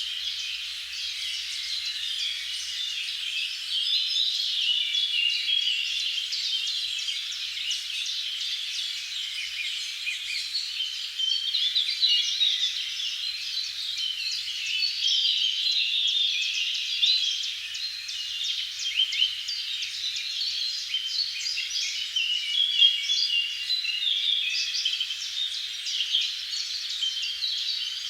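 Many small birds chirping and singing at once, a dense, unbroken chorus of short, high calls overlapping one another.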